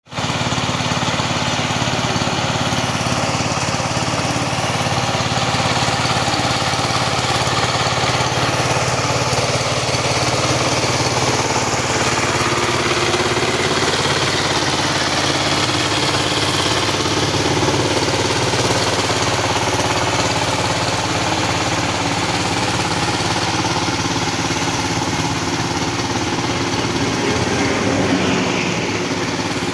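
Engine of a field-tilling machine running steadily, its pitch drifting slightly up and down as it works.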